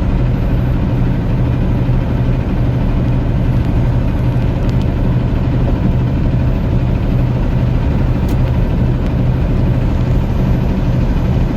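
Semi truck's diesel engine and road noise droning steadily while driving, with a strong low hum.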